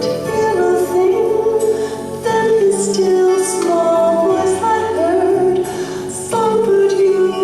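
A young girl's voice singing a song in long held notes over backing music.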